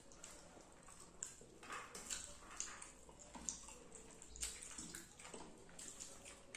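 Close-miked wet eating sounds: chewing and lip smacks over rice and fish curry, with irregular short sharp clicks about every half second or so.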